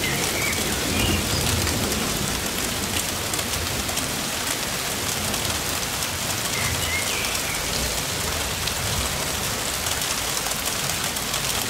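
Steady rain falling on meadow grass and flowers: a continuous hiss made of many small drop impacts, even in level throughout.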